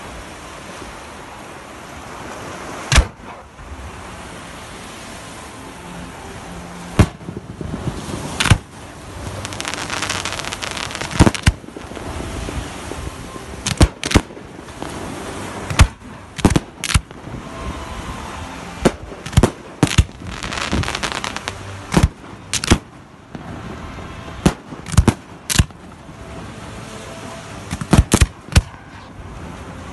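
Fireworks display: aerial shells going off with more than twenty sharp bangs, a few seconds apart at first and then several close together, with a stretch of crackling about ten seconds in. Under them is a steady rushing background.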